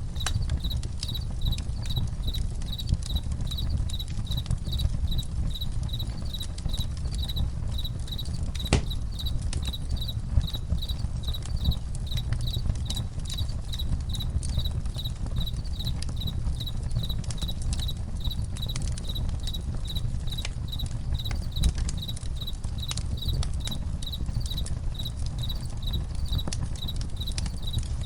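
Crickets chirping in a steady pulse, about three chirps a second, over the low rumble and scattered pops of a crackling campfire, with one sharper pop about nine seconds in.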